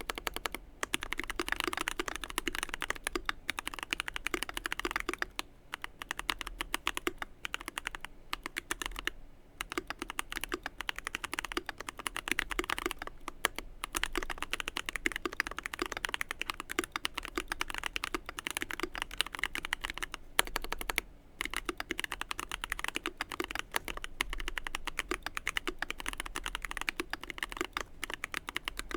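Continuous fast typing on a Keychron Q1 mechanical keyboard with a brass plate, lubed and filmed Everglide Oreo tactile switches and GMK keycaps, giving dense runs of keystroke clacks with a few brief pauses between bursts.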